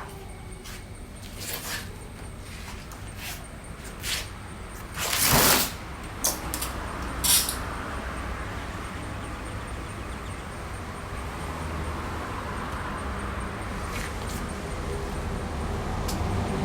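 Workshop handling of engine parts: scattered clicks and knocks of metal parts, with a short loud hiss about five seconds in and a sharper one near seven seconds, over a low rumble that grows louder toward the end.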